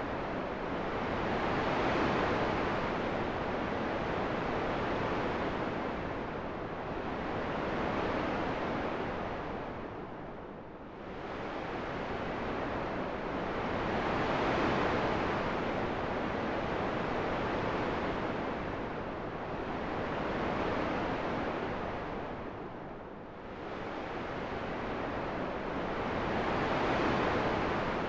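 Rushing wind sound, a steady noise that swells and eases in slow gusts about every six seconds, dipping briefly twice.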